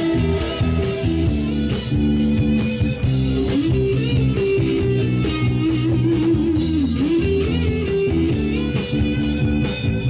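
Live rock band playing an instrumental break between verses: a guitar plays a bending lead melody over bass and drums.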